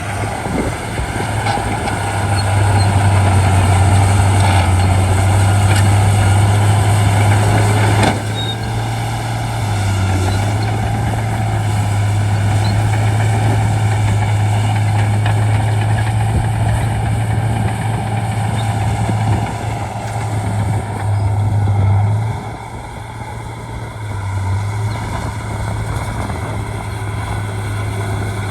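Bulldozer's diesel engine running under load with a steady low drone. The engine note eases off briefly about eight seconds in and again near twenty-two seconds, with a single sharp clank at the first of these.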